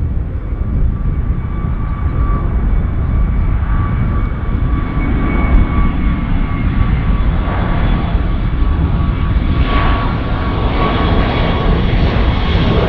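Jet airliner engines running as the aircraft passes the runway side: a steady low rumble with a high engine whine on top. A rushing hiss builds over the last few seconds.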